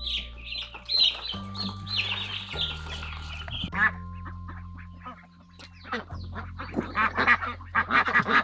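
Young chicks peeping rapidly in high, repeated chirps for the first few seconds, then fainter and more scattered calls, with sharper, denser calls near the end, over background music with held low notes.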